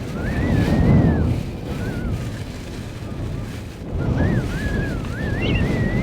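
Gale-force wind buffeting a car: a low rumble that swells in two strong gusts, one about a second in and another from about four seconds, with a thin whistle wavering up and down above it.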